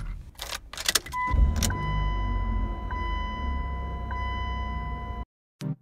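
Car door clunks, then the car's engine starts about a second in and settles into a steady idle at around 1,000 rpm, with a steady electronic chime tone from the dashboard over it. The sound cuts off abruptly near the end.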